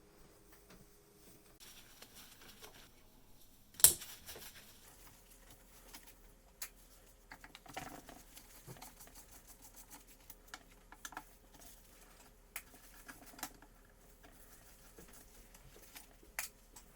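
Small parts and tools being handled on a workbench: scattered light clicks and taps, with one sharp click about four seconds in. A faint steady hum comes in about five seconds in.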